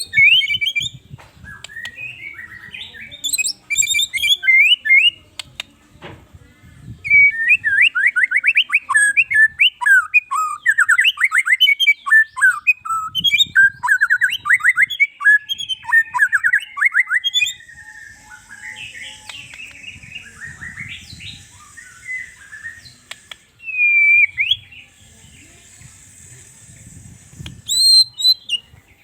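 White-rumped shama (murai batu) singing a long, varied song in the aggressive 'fighter' style: loud whistled phrases and chattering, with a dense run of rapid notes from about seven to seventeen seconds in.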